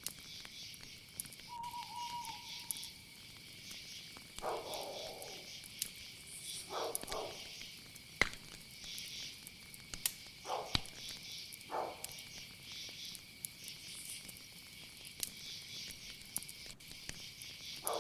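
Night-time chorus of crickets and other insects, a steady high trill with pulsing chirps above it. Over it come a brief whistled note and about four short, lower animal calls spaced a few seconds apart.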